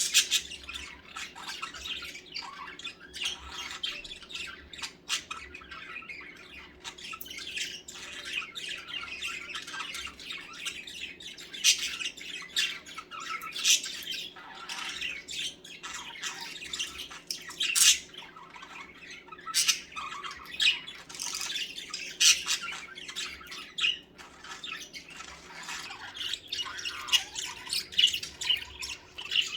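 A group of budgerigars chattering and warbling without a break, with frequent sharp chirps and squawks among the steady twitter: the contented chatter of a flock of budgies.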